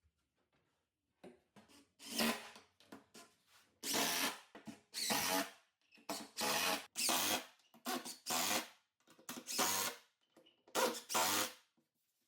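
A power drill driving screws into plywood in about eight short runs of a second or less, with pauses between them.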